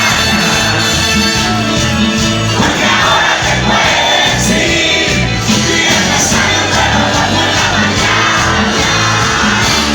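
Live cumbia music with a steady driving beat and heavy bass, with a crowd shouting and singing along over it.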